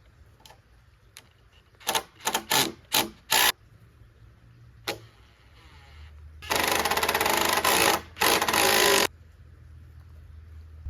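A handheld power drill/driver driving a fastener into wood. It gives several short trigger bursts, then a longer run of about two and a half seconds with a brief stop near the end, the motor and chuck rattling rapidly.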